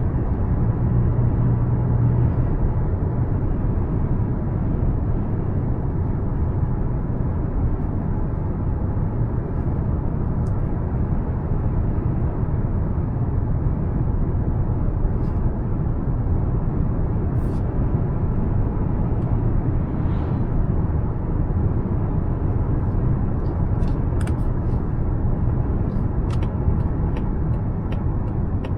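Mazda CX-5's naturally aspirated 2.5-litre four-cylinder engine and tyres running at a steady cruise: an even, low road-and-engine drone with a low hum, and a few faint clicks near the end.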